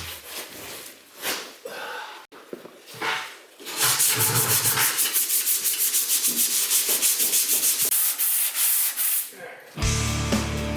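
Sandpaper rubbing on a car body panel in quick, even back-and-forth strokes, about six a second, starting about four seconds in after a few scattered scrapes. It is the sanding stage of auto body work on filled dents. Background music comes back near the end.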